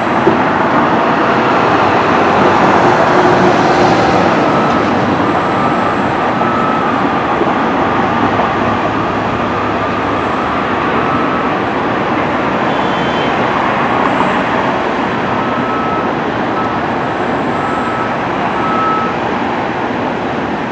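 Steady vehicle and machinery noise, with two runs of short, evenly spaced high beeps, one around the middle and one near the end.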